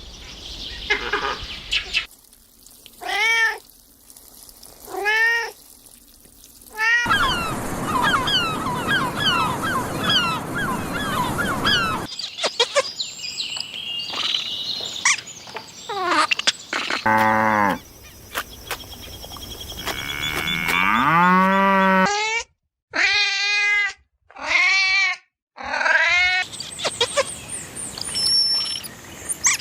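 A string of separate animal-call clips cut one after another, among them drawn-out arching meows of a cat, with a stretch of many quick high chirps in the middle.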